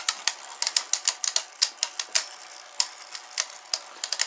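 Two spinning Beyblade tops, a Rage Longinus and a 3D-printed Onslaught, clashing in a plastic stadium: rapid, irregular plastic clacks, several a second, as both attack-type tops keep hitting each other.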